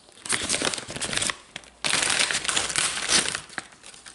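Crisp packet crinkling as it is handled, in two bursts: a short one and then a longer one about two seconds in.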